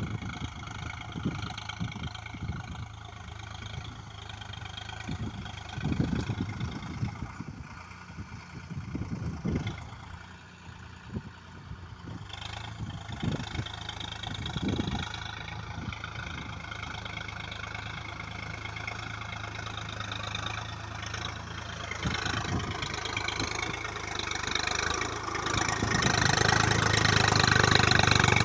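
Swaraj 742 XT tractor's diesel engine running steadily, with irregular low thumps through the first half; the engine gets louder over the last few seconds.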